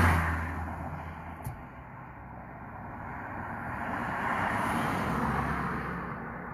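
Road vehicles passing: one pulling away and fading at the start, then another approaching, passing about five seconds in and receding.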